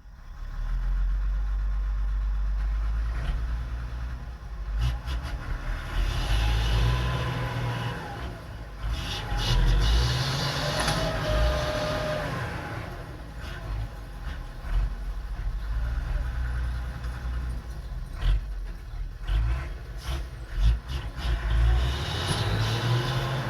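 Heavy dump truck's engine running with a deep rumble, revved up and down unevenly, with a few sharp knocks about three quarters of the way through.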